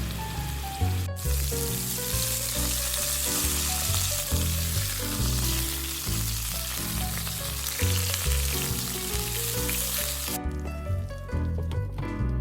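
Background music with a steady bass line, overlaid by an even hiss that starts about a second in and cuts off near the end.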